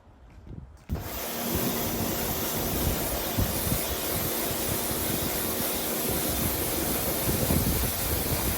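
Pressure washer rinsing the car: a steady, loud hiss of high-pressure water spray with a faint machine hum beneath, starting abruptly about a second in.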